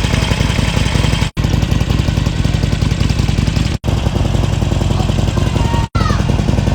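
Big motorcycle engine idling with a steady low pulse, dropping out sharply to silence for an instant three times.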